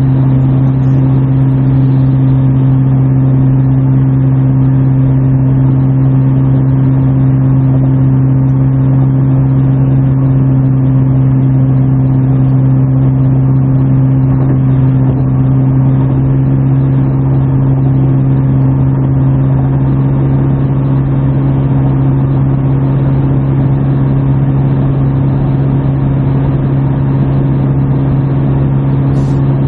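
Exhaust drone of a 2017 Subaru Forester 2.5i's 2.5-litre flat-four with a muffler delete, heard from inside the cabin while cruising at freeway speed. It is a loud, steady low hum with a higher overtone, over road noise.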